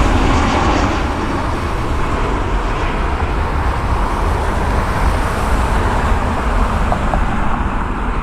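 Steady, low rumbling engine and traffic noise with no distinct tones or separate events.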